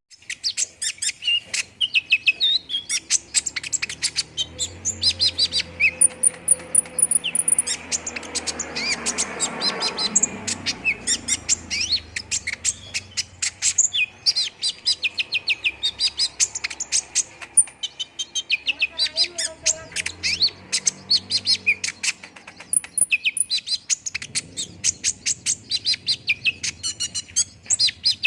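Konin (kolibri ninja) sunbird singing a fast, continuous stream of high chirps and twittering trills, used as a lure song to set other birds singing.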